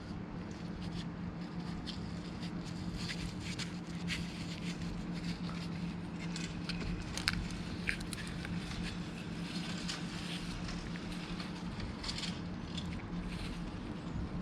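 Scattered small clicks and light scrapes, as of parts being handled, over a steady low hum.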